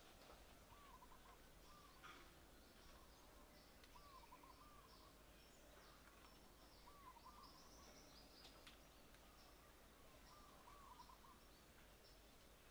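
Faint background birdsong. One bird repeats a short call of two or three quick looping notes every few seconds, while others give brief high chirps, over a low steady hiss of ambient noise.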